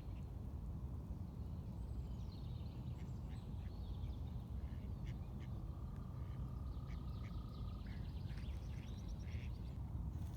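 Several birds singing and calling: short high chirps, trills, a falling whistle and a held whistled note in the middle, over a steady low rumble.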